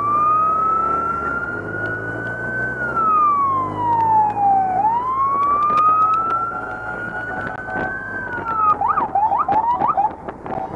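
Police motorcycle siren wailing: it slowly rises, falls, and rises again, then breaks into a quick series of short yelps near the end. Motorcycle engines run underneath.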